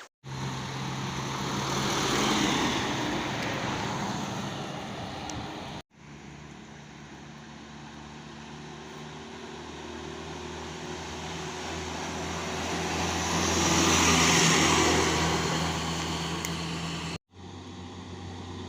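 Heavy trucks driving past on a road: steady engine note with tyre and wind noise that swells and fades as each truck passes. The sound breaks off abruptly twice where separate clips are joined.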